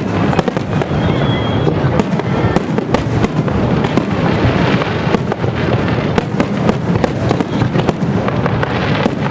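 Aerial fireworks going off in rapid succession: a dense, unbroken run of bangs and booms with sharp crackling mixed in.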